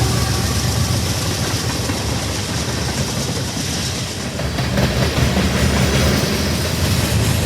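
Train rolling past: a steady noise of wheels on rails over a low rumble.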